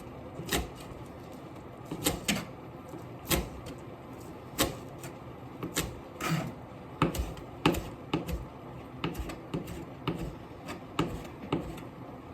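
Irregular sharp knocks and clicks, about one or two a second, of kitchenware being handled and set down during food preparation, over a steady low hiss.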